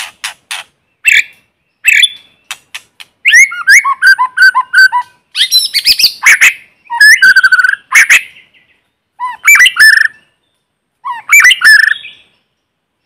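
White-rumped shama singing its challenge song: a few sharp chips, then loud phrases of rapid whistled and slurred notes with clicks, each about a second long, separated by short silent pauses.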